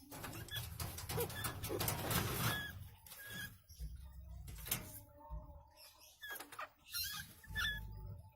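A rat and a bird scuffling, with irregular scrabbling and scratching, clicks, and short high squeaks scattered through.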